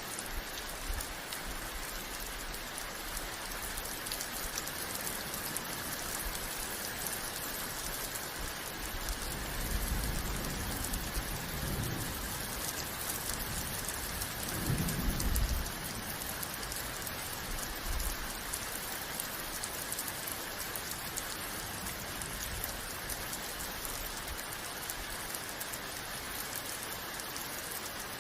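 Steady rain falling, an even hiss of many drops. Two low rumbles swell and fade near the middle, about ten and fifteen seconds in.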